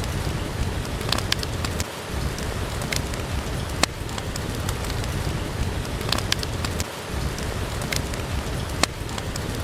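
Steady rain with a deep rumble underneath, and scattered sharp pops from a crackling wood fire.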